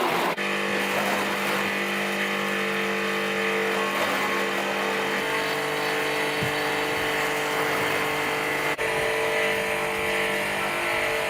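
Daewoo Matiz engine running steadily after its rebuild, with brief breaks about half a second in and again near the end.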